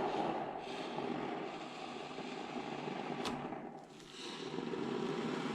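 Can of Great Stuff expanding spray foam hissing steadily as foam is dispensed into a gap, with a sharp click a little past three seconds in and a short break about four seconds in before the hiss resumes.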